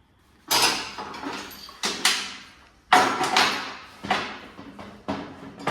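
A series of about five clatters and scrapes of hard parts being handled, each sudden and fading away, the loudest about three seconds in.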